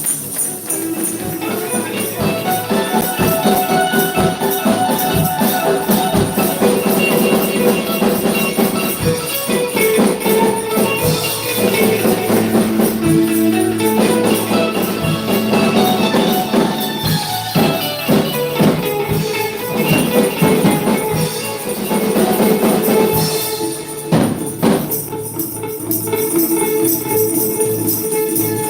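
Church worship band playing instrumental music, with a tambourine shaken in a steady rhythm over sustained instrumental chords.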